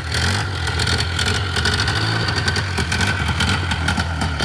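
Polaris Trail Boss 350L ATV's single-cylinder engine idling steadily.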